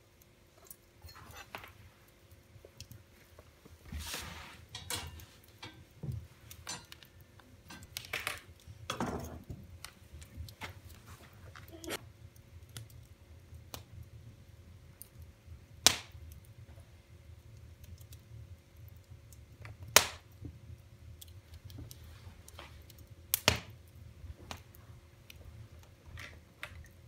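Wood fire in a fireplace crackling, with scattered small snaps and three loud, sharp pops in the second half.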